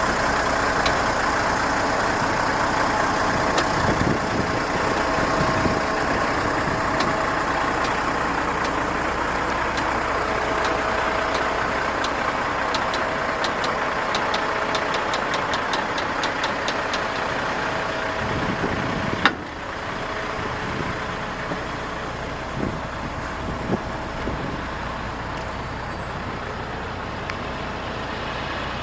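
Dump truck engine running steadily with a faint steady whine. A fast ticking runs through the middle, and a single sharp knock comes about two-thirds of the way in, after which the engine is a little quieter.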